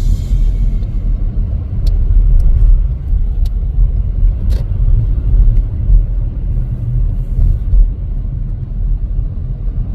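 Steady low rumble of a car being driven, engine and road noise heard from inside the cabin, with a few light clicks.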